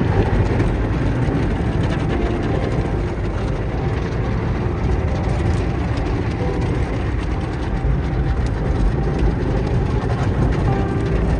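Automatic car wash machinery running: a steady, dense mechanical rush and rumble.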